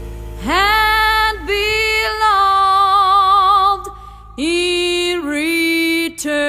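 A solo female voice sings a slow ballad in two phrases, holding long notes with vibrato over a quiet, held accompaniment chord.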